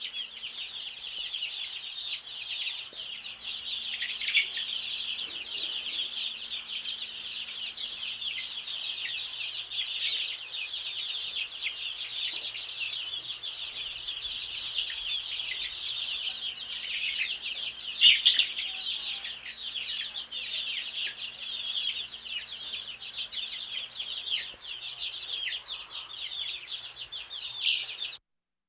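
A brood of baby chicks peeping continuously: many short, high, downward-sliding peeps overlapping one another, with a louder burst about 18 seconds in.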